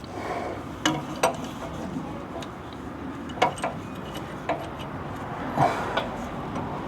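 Hand tools clinking and knocking against the steering parts of a Jeep Gladiator: about seven irregular sharp metallic clicks spread over a few seconds.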